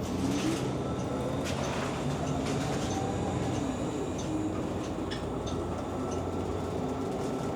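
City transit bus heard from inside the cabin, its engine and drivetrain running with a steady rumble and a whine that rises and shifts in pitch as it pulls away, with faint rattles and clicks.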